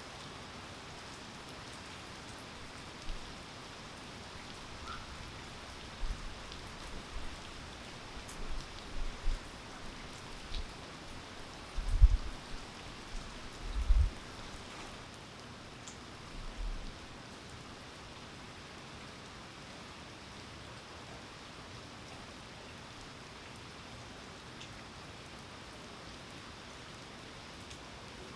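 Steady rain falling, an even hiss of drops. Scattered low thuds come in the first half, the two loudest about two seconds apart near the middle.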